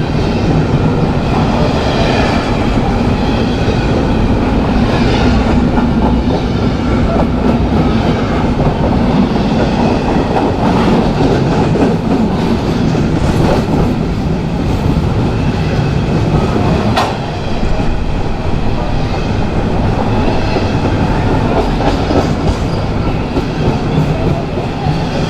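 Train rolling past on the tracks close by: a loud, steady rumble of wheels on rail, with a single sharp click about two-thirds of the way through.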